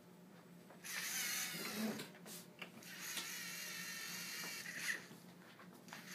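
LEGO Mindstorms robot's electric motors and plastic gear train whirring as it drives, in two runs: one of about a second, then one of about two seconds, with a few clicks between them.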